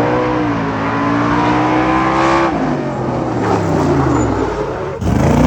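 An engine revving up, holding high revs for about two seconds, then dropping back. A quick rev up and down comes near the end.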